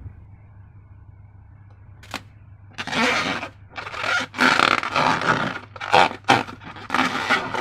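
Slime handled by hand: sticky squishing, scraping and rubbing sounds in irregular bursts that start about three seconds in and come faster toward the end, after a single click about two seconds in.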